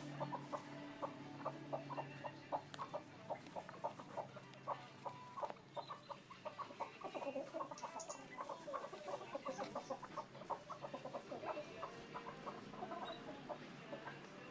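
Animal calls: a steady run of short, rapid notes, several a second.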